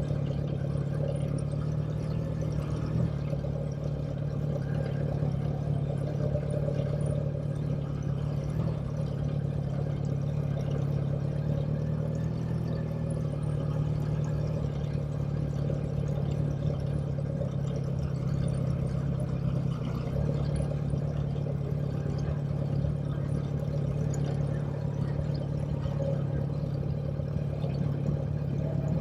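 Motorcycle engine running at a steady, even speed while riding, its pitch holding nearly constant with only slight dips now and then.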